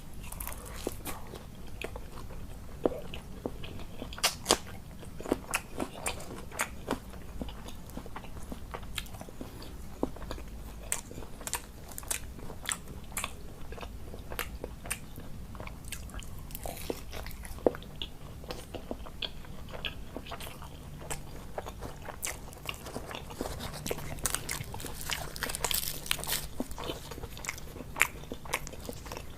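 Close-miked eating: a person biting and chewing food, with irregular crunches and wet mouth clicks throughout.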